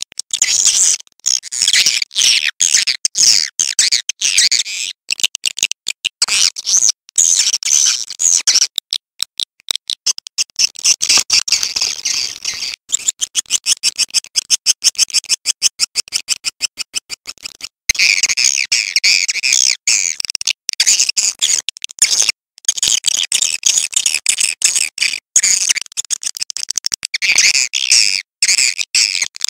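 Recorded swiftlet calls, the kind played to lure swiftlets into nesting houses: dense, high-pitched twittering chirps, with a stretch of rapid, even clicking in the middle before the twittering returns.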